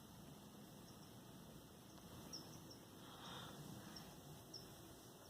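Near silence with a faint steady hiss of light rain, and a few faint short high chirps.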